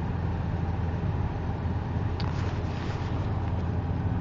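Steady low engine and road rumble heard inside the cabin of a 2002 Hyundai Elantra GLS while driving, with a short click and a brief hiss about two seconds in.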